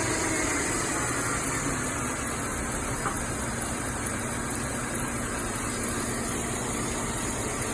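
Mercedes-Benz W212 E-Class engine idling steadily after a cold start, with a faint whine in the first second or two that fades. This is the abnormal cold-start noise the owner likens to a high-pitched electric drill.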